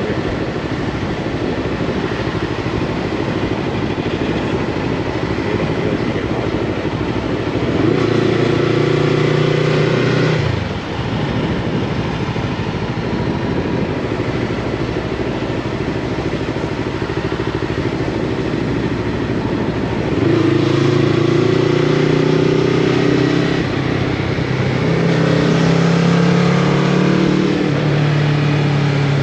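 Yamaha MT-03 motorcycle with a Scorpion full-system exhaust under way, its engine note over steady wind and road rush. The engine grows louder about eight seconds in, drops off sharply near eleven seconds, and comes back stronger from about twenty seconds, its pitch stepping up and down as the throttle and gears change.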